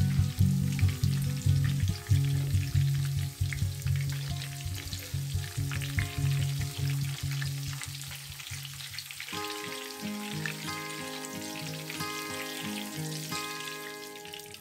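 Tofu and tempeh frying in a pan of hot oil: a steady sizzle with many small pops as the pieces are scooped out. Background music plays alongside it, its tune changing about nine seconds in.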